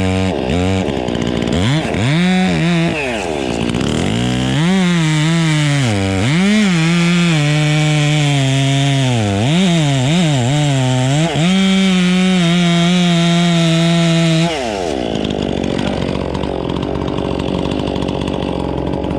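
Chainsaw running at high throttle while cutting, its engine pitch dipping and recovering as it bogs in the wood, then held steady. About fourteen seconds in the revs drop sharply off, leaving a lower, steady running sound.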